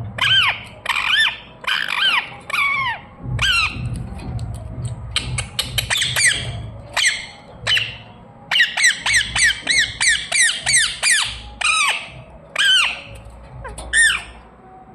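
Pet parrot giving a string of short, shrill squawking calls, each one arching in pitch, some spaced out and others in quick runs.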